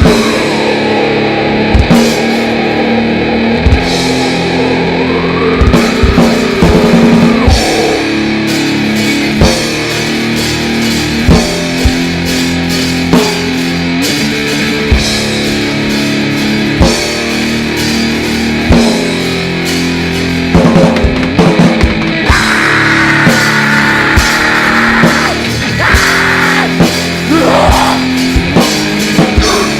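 Grindnoise band playing live: heavily distorted electric guitar chords held over slow, spaced drum hits about every two seconds. Sliding high tones wail over the top near the start and again later on.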